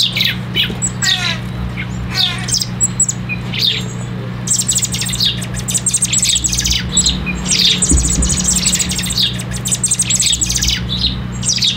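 Young birds in care calling and squawking, begging for food, the calls thickening into a dense, rapid high-pitched chatter from about four seconds in. A steady low hum runs underneath.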